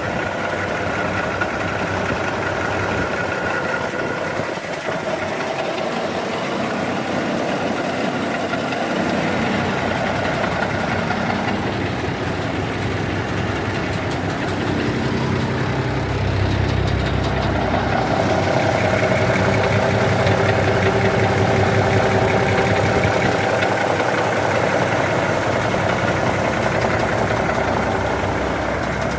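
Diesel engine of a 1991 Kenworth truck idling steadily, getting louder and heavier a little past halfway.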